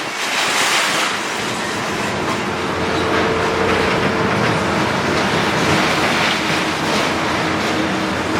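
Demolition excavator at work: its engine running under continuous heavy metallic clatter and grinding, with a steady whine setting in about three seconds in.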